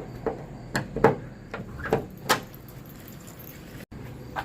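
Sharp metallic clicks and knocks from flush-mount hood latches being worked, about six of them in the first two and a half seconds.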